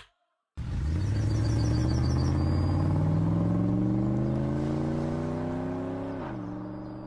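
Car engine accelerating, its pitch rising steadily for about five seconds, then dropping sharply about six seconds in as for a gear change, and fading away.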